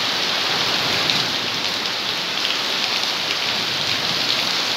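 Steady rain falling on a garden, drops hitting concrete paving, leaves and a metal grille over a fish pond.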